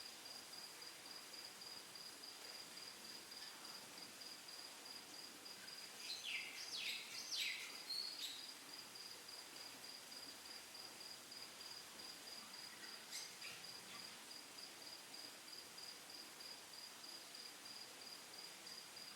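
Cricket chirping faintly and steadily, an unbroken run of quick high pulses. About six seconds in come four or five short, falling high squeaks, and there is a faint tick a little past halfway.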